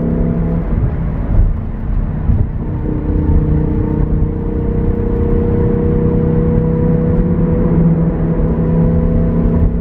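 Lamborghini Huracán Performante Spyder's V10 engine and exhaust at steady highway speed, heard from the passenger seat over road noise on a wet highway. The engine note weakens about a second in and comes back steady about three seconds in.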